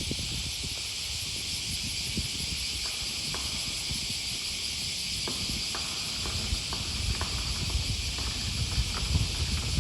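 Dense chorus of cicadas: a steady, high buzzing hiss with no breaks, over a low rumble and a few faint ticks.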